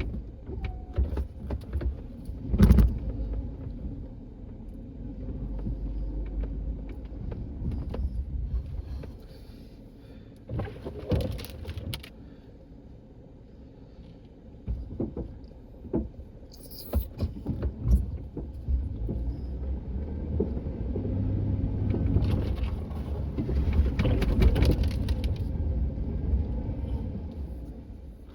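A vehicle engine working through deep snow, its low rumble rising and falling twice, with scattered clunks and clatters.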